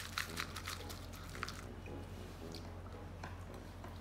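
Popcorn being chewed close to the microphone: a quick run of crisp crunches over the first second and a half, then a few scattered crunches.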